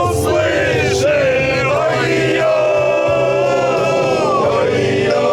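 Music with several male voices singing long drawn-out notes together, like a chorus sung along to a Russian rock song.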